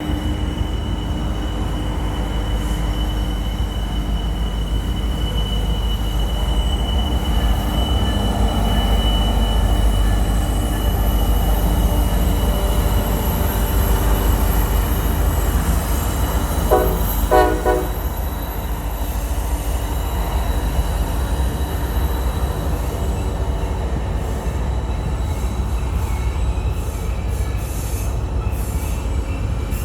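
Freight train rolling through a sharp curve, a steady low rumble with the high, steady whine of wheel flanges squealing against the rail. About halfway through, the locomotive horn sounds two short blasts.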